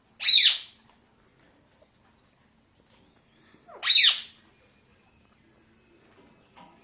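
Pet parakeet giving two short, harsh squawks, one just after the start and another about four seconds in.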